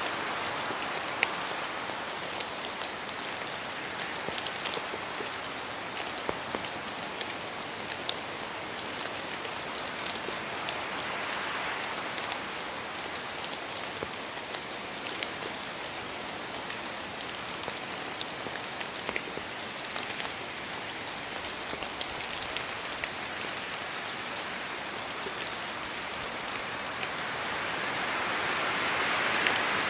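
Steady rain falling, an even hiss dotted with many sharp, close drop ticks. The hiss swells gently about midway and again near the end.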